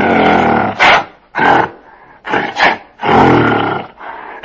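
Gorilla roaring: a series of loud calls, some long and some short, with brief pauses between them.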